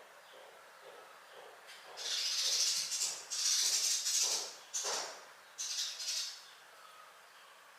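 Several bursts of rustling, scuffling noise, lasting from about two seconds in to a little past six seconds, over a faint quiet background.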